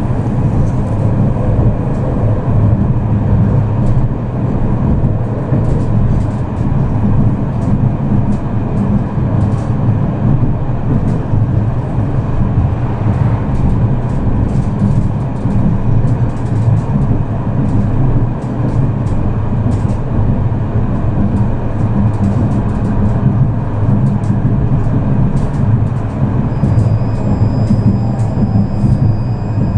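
Tram running along the line, heard from inside the passenger car: a steady low rumble of wheels and running gear.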